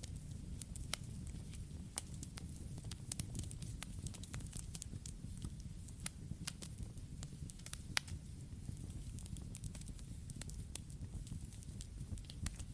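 Wood campfire crackling: irregular sharp pops and snaps over a steady low rumble of burning flames, with one louder pop about eight seconds in.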